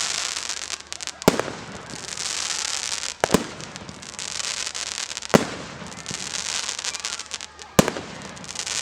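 Fireworks display: sharp bangs of bursting shells, five in all with two close together near the middle, over a steady crackling, fizzing hiss.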